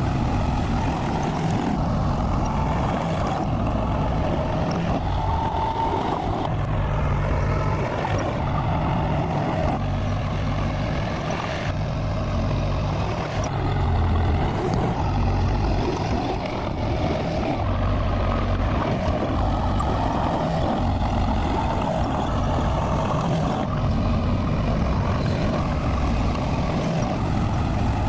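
Bulldozer's diesel engine running steadily, a continuous heavy drone that rises and dips slightly in level.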